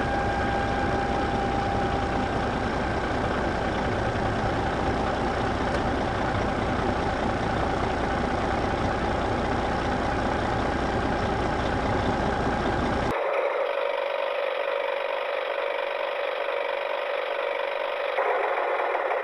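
Engine running steadily at idle. About 13 seconds in it cuts abruptly to a thinner, higher running sound with a steady hum and little low end.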